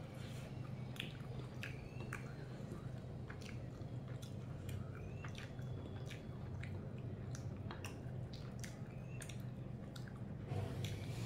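Close-miked eating sounds: a person chewing chicken and rice, with many irregular wet mouth clicks and smacks. A steady low hum runs underneath.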